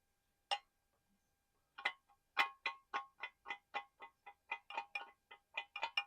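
Tapping on a small hard collectible: one tap, then a quick even run of taps, about four or five a second.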